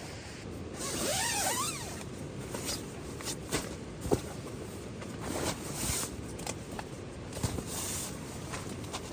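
A brief swishing scrape about a second in, then scattered light clicks and knocks of camp gear being handled, over a steady hiss.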